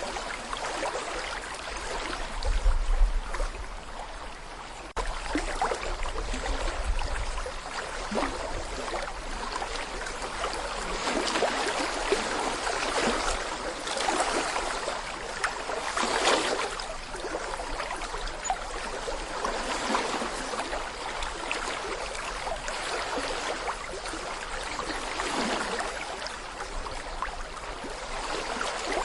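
Small brook babbling over stones: a steady rush of flowing water flecked with little splashes and gurgles. A low rumble runs underneath for a few seconds near the start.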